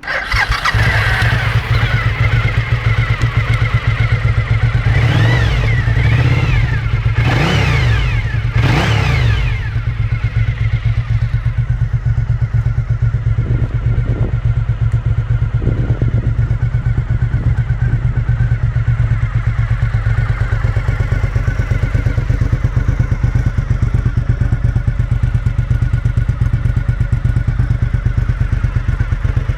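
Suzuki SV1000's 90-degree V-twin running through its original exhaust, blipped three times in quick revs between about five and ten seconds in, then settling to a steady idle.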